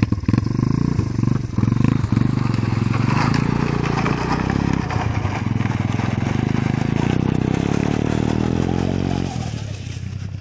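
IMR pit bike engine revving: choppy throttle blips at first, then held at high revs for several seconds before it drops off sharply near the end.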